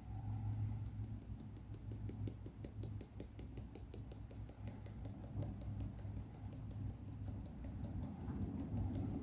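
Dense faint ticking and pattering as grout powder is tapped out of a small plastic lid and sprinkled onto glue on a model railway baseboard, over a steady low hum.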